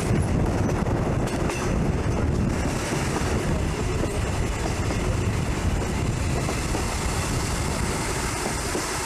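A train running along the track: a steady rumble with some rail clatter, easing slightly toward the end.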